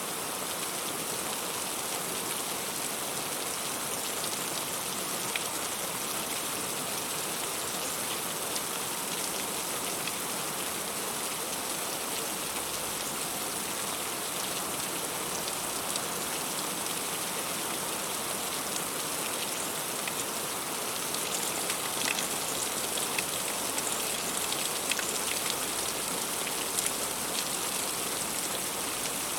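Heavy rain falling steadily, with scattered sharper drop impacts standing out, more of them in the second half.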